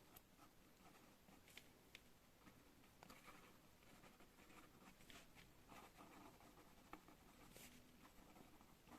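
Pen writing on paper, heard faintly: short scratching strokes at irregular intervals, with a few sharp little ticks.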